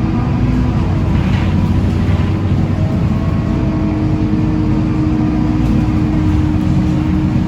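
Scania K230UB single-deck city bus's diesel engine running steadily under way, a loud low drone with a held hum.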